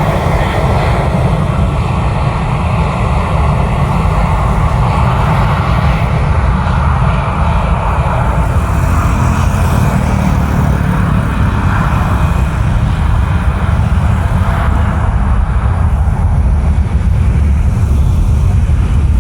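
Jet airliner engines running, heard from the airport perimeter: a loud, steady, deep rumble with a rushing roar above it that grows brighter around the middle.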